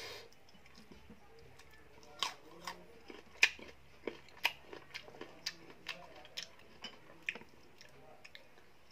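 Crisp, unripe Indian mango being chewed close to the microphone. After a quiet first two seconds come sharp crunches, roughly two a second, the loudest about three and a half seconds in.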